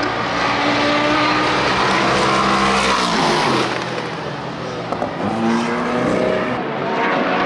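Sports-prototype and GT race car engines at full song on a road course, cars passing one after another. One engine's note drops away about three seconds in as it goes by, and after a brief dip another's climbs as it accelerates.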